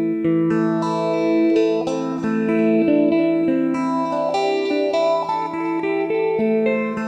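Electric phin, the Isan Thai lute, playing a quick plucked melody over a steady low drone.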